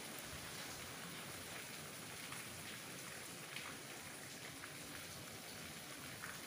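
Steady rain falling, with scattered ticks of single drops.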